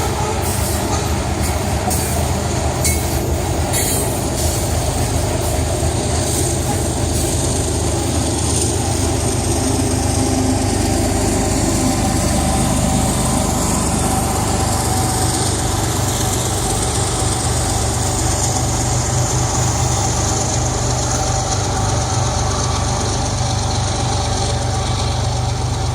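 A long freight train's cars rolling steadily past, steel wheels clattering and rumbling on the rails, with a few sharp clicks in the first few seconds and some high wheel squeal.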